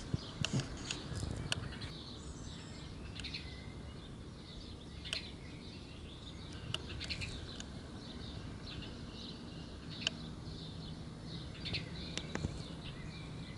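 Small birds chirping and calling, with scattered short sharp chips, over a steady low background rumble.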